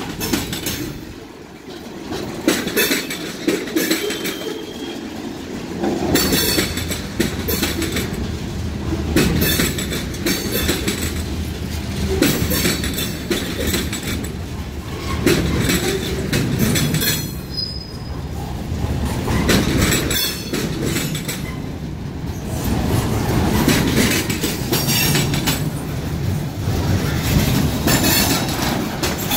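A train's cars rolling past, a continuous rumble with wheels clacking over rail joints at uneven intervals.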